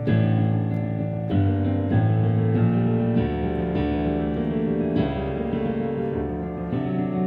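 Piano playing a piece with a strong bass line, new chords struck about every second and held.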